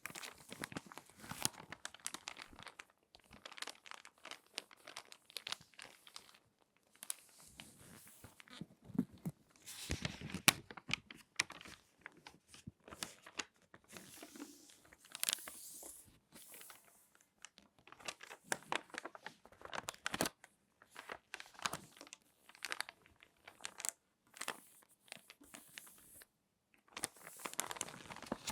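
Glossy magazine pages being folded and creased by hand, close up: irregular crinkling and crackling rustles with a few sharper snaps of paper and short pauses between handlings.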